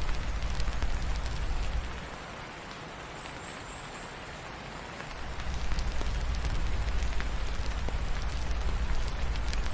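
Steady rain falling, with faint scattered crackles from a wood fire. A low rumble underneath fades out about two seconds in and comes back about three seconds later.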